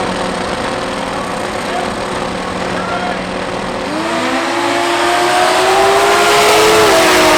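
Race car engine under hard acceleration: about four seconds in its pitch starts climbing steadily and the sound grows louder and fuller.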